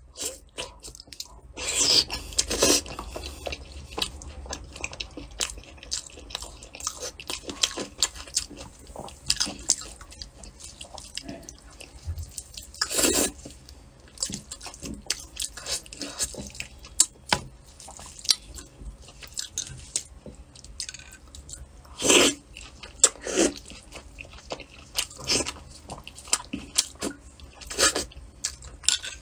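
Close-up wet eating sounds of saucy braised lamb ribs: chewing, lip smacks and meat being bitten off the bone, with several louder bites scattered through.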